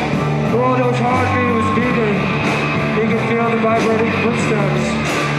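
Live rock band playing an instrumental groove: electric bass holding and changing sustained low notes, an electric guitar line bending in pitch, and drums with regular cymbal hits.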